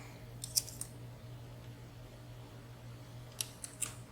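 Light metallic clicks of lock picks working inside a WSW W10 slider padlock: a couple about half a second in and a few more near the end, over a steady low hum.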